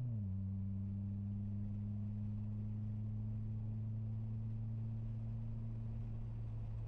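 Mitsubishi Lancer Ralliart's engine heard from inside the cabin while driving: a steady low drone that dips slightly in pitch at the start and then holds level.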